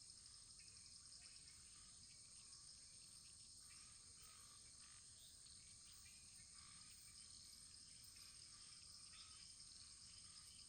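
Faint, steady high-pitched chirring of a cricket chorus, with faint soft ticks underneath.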